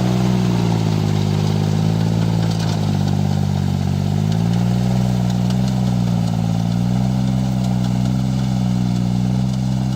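Kubota 2202 four-wheel-drive tractor engine running steadily, its speed dipping and picking up slightly a few times.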